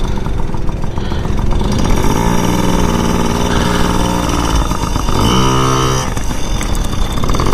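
Motorcycle engine running at low speed, its pitch held steady for stretches, over a constant low rumble of wind and road noise on the microphone.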